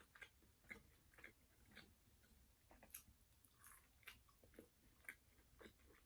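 Faint mouth sounds of a person chewing fried food, soft irregular clicks and smacks about once or twice a second.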